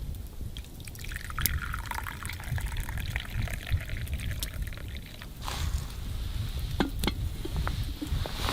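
Liquid pouring for about four seconds, starting about a second in, with scattered small clicks and knocks over a steady low rumble.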